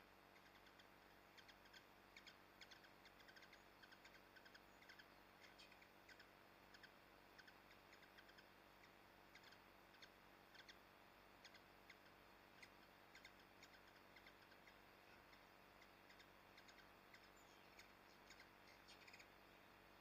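Faint, quick, irregular chirps of small wild birds, several to the second, over a steady low hum.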